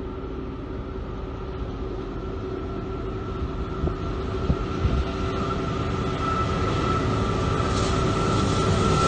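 Approaching diesel freight train on the CSX line: the locomotive's engine drone grows steadily louder, with a steady whine above it and a few light knocks from the wheels and cars about halfway through.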